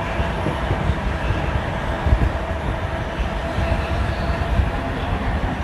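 Indian Railways sleeper coach of the Goa Express in motion, heard from inside: a steady rumble of wheels on the rails with irregular low knocks.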